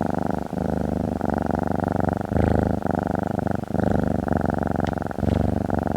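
A domestic cat purring, in stretches broken every half second to a second as it breathes in and out.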